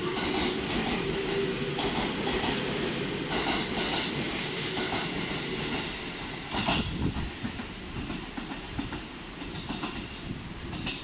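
A JR Central electric multiple unit train of 211-series and 313-series cars pulls away from the platform and runs past, its wheels clacking over rail joints. The sound drops after the last car passes about six to seven seconds in, with one sharp clack, and the train fades off into the distance.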